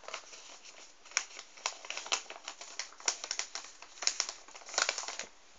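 Sheet of A4 paper being handled and folded, with a run of sharp crinkles and crackles as the flap is lined up and creased.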